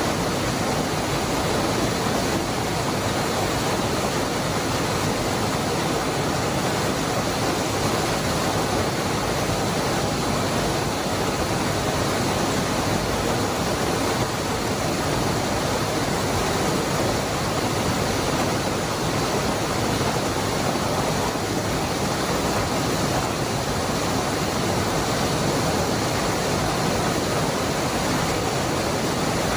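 Cascada del Hervidero waterfall: water falling and rushing in a steady, unbroken rush of noise.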